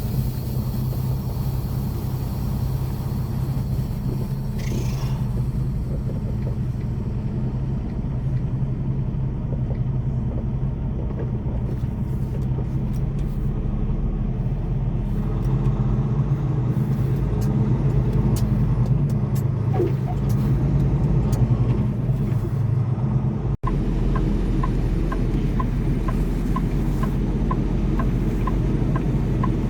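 Semi truck's diesel engine running with a steady low drone, heard from inside the cab. Near the end, after a brief cut, a turn signal ticks about one and a half times a second.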